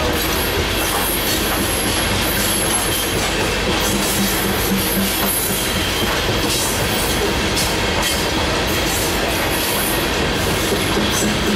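Coal cars of a long freight train rolling steadily past: a continuous rumble of steel wheels on rail with clickety-clack over the rail joints. A thin high wheel squeal comes in the first few seconds.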